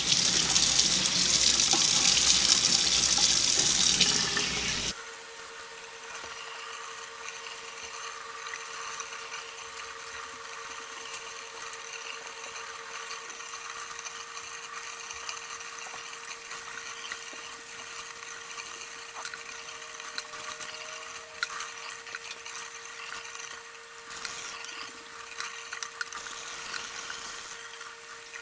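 Tap water running into a sink, splashing as hair is rinsed, for about five seconds, then cutting off suddenly. A much quieter steady hum with faint hiss and occasional small clicks follows.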